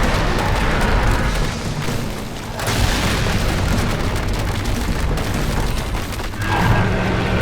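Loud animated-battle sound effects: a dense, rumbling roar with booms, under background music, easing briefly twice.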